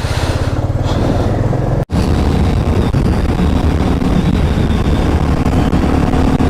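Motorcycle engine running under way, a loud steady exhaust note with a low pitched drone. It cuts out for an instant about two seconds in, then carries on.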